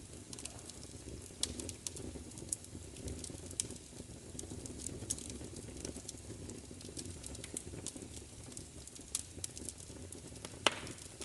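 Wood fire crackling: irregular sharp pops and snaps over a steady low rumble of flames, with one louder pop near the end.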